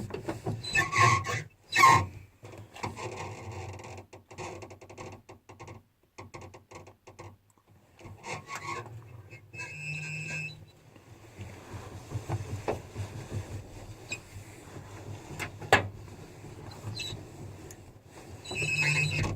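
Handling noises: scraping, rubbing and clicks, with a short squeak about ten seconds in, as a part that has slipped off its track is worked back into place.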